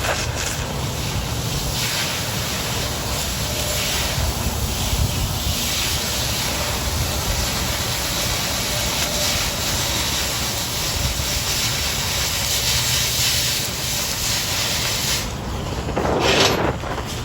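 Oxy-fuel cutting torch hissing steadily as it cuts through quarter-inch steel plate. The jet cuts off about fifteen seconds in, and a short, sharp burst of hiss follows near the end.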